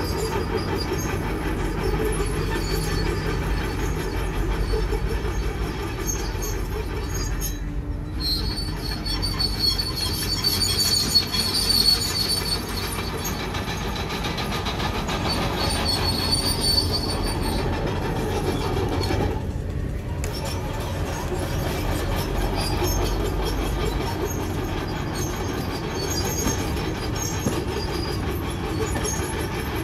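Komatsu crawler bulldozer working, with a steady engine rumble and the squeal and clatter of its steel tracks. The high track squeal comes and goes, strongest in the middle, and the sound breaks off briefly twice.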